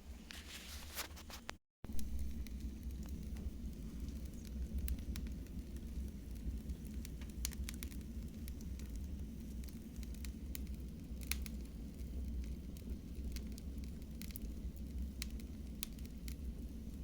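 Wood fire crackling in a fireplace: a steady low rumble and hiss with irregular sharp pops and snaps. The sound cuts out completely for a moment near the start.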